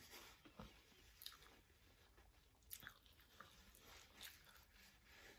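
Faint chewing of food, with a few soft clicks scattered through; otherwise near silence.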